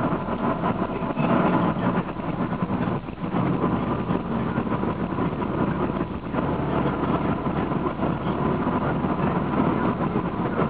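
Honda car driving at road speed, heard from inside the cabin: a steady drone of engine and road noise with a thin steady tone in it.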